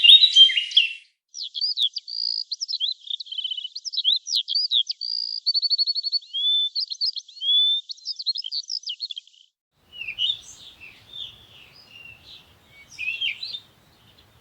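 A songbird singing a long run of varied phrases, with quick sweeping notes and rapid trills. After a short pause about nine seconds in come fainter, scratchier calls.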